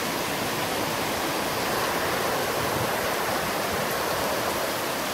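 Very heavy rain pouring down in a sudden downpour: a steady, loud hiss of rain with no let-up.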